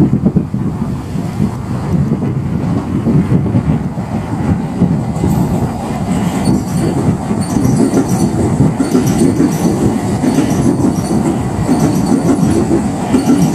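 JR Central 315 series electric train running past on the Chuo Main Line: a steady rumble, joined about halfway through by faint high-pitched wheel and rail squeal and clatter.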